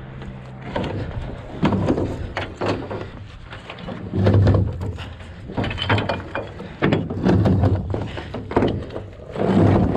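Heavy steel mooring chain hauled aboard by hand, its links clanking and thudding against the boat in irregular bursts.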